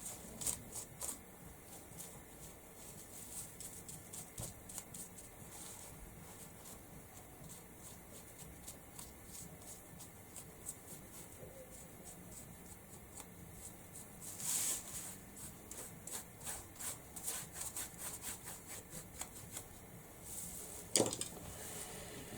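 Faint, quick tapping and rubbing of hands applying colour to a craft piece on a small wooden board, with a brief hiss about fourteen seconds in.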